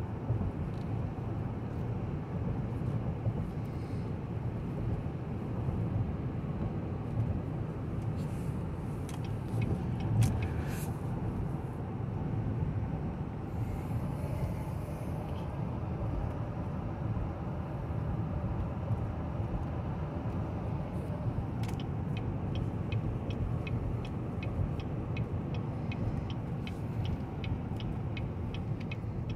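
Steady low road and tyre rumble inside the cabin of a 2018 GMC Yukon Denali cruising down a straight road. A light, regular ticking sets in near the end.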